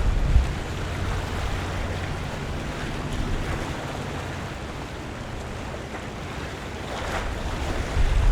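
Harbour water lapping and washing against the waterfront, a steady rush with a brief louder wash about seven seconds in. A low rumble, like wind buffeting the microphone, is heavy at the start, eases off, and comes back near the end.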